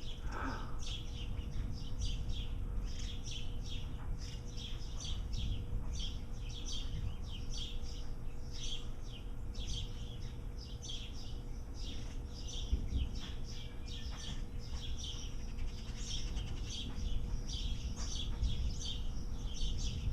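Several birds chirping continuously, with short, quick, high-pitched calls several times a second. Under them is a steady low rumble of wind on the microphone and a faint steady hum.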